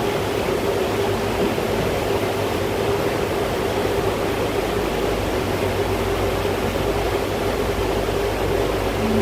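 Dubai Ferry underway: a steady engine drone with a constant hum, under an even rushing noise of water and air past the boat.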